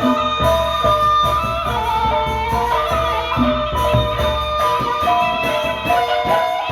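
Gendang beleq ensemble playing traditional Sasak music. Ringing metallic melody tones sound over a quick, steady beat of drum and cymbal strokes, with a deep drum or gong underneath.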